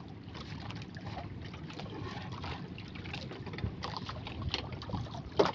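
Steady background aboard a small fishing boat at sea: water sloshing against the hull and wind, with scattered small splashes and ticks.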